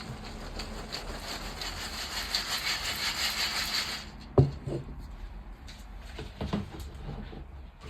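Gym chalk being crushed and crumbled, a dense, fine crunching that builds for about four seconds and then stops abruptly. A sharp knock follows, then softer scattered crumbling and taps.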